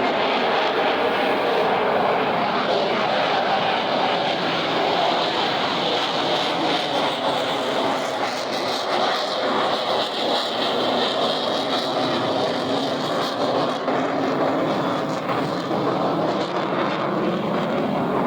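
Lockheed Martin F-22 Raptor's twin Pratt & Whitney F119 turbofans: a steady, loud jet roar passing overhead, with a tone in it that dips and then rises again in pitch around the middle.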